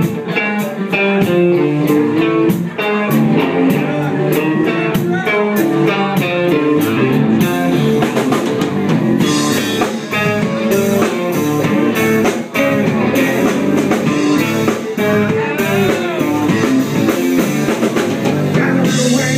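Live country-rock band playing an instrumental intro: guitar over a steady drum kit beat.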